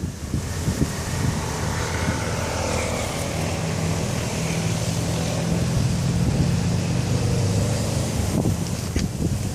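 Strong gale wind buffeting the microphone over the steady rush of a stormy sea.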